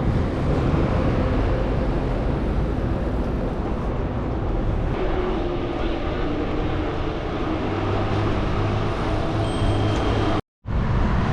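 Road noise on a moving bicycle in city traffic: steady wind rumble on the microphone mixed with passing motor vehicles. The sound cuts out for a moment near the end.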